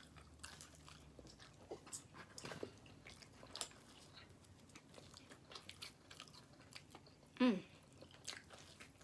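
Close-miked chewing and biting of pizza: soft crunches and wet mouth clicks. A short falling voiced sound comes about seven and a half seconds in.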